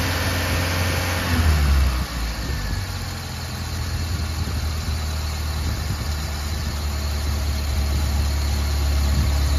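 Honda Accord Maestro's engine idling, with a brief rev about a second and a half in that drops back to a steady idle.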